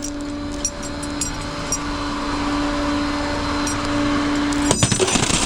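Steady mechanical hum over a rush of moving air, like a vehicle blower fan running. Near the end it gives way to a quick cluster of clicks and knocks.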